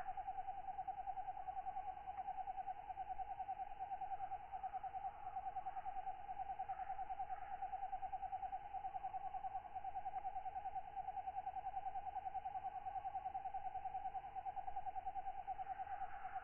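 Katydid singing a continuous, rapidly pulsing trill, steady and unbroken, with fainter calls of other night insects higher up.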